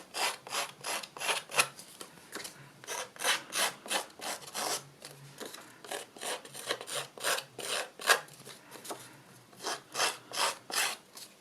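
Edges of a paper card being distressed with a scraping tool: short, sharp scraping strokes, about three a second, in uneven runs.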